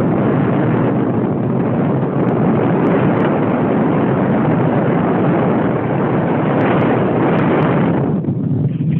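Radio-controlled model airplane in flight: a loud, steady rush of motor and wind noise. The higher part of the noise dips briefly near the end.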